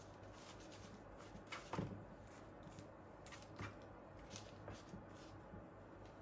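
Faint scattered clicks and rustles of objects being handled, the loudest about two seconds in, over a low steady hum.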